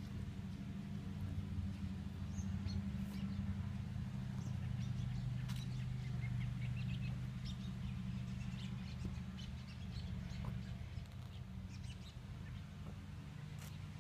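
Small birds chirping sporadically, with short high chirps scattered throughout, over a steady low hum.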